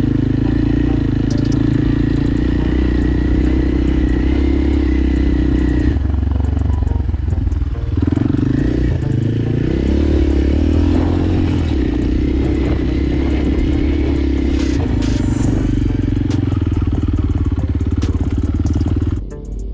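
Motorcycle engine running steadily under way, dropping in pitch about eight seconds in and climbing again, as when easing off and accelerating. Near the end it cuts to background music.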